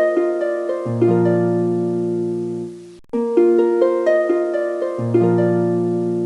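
Background music: a gentle plucked-string melody over long held bass notes, repeating as a short loop of about four seconds, with a brief break where the loop restarts about three seconds in.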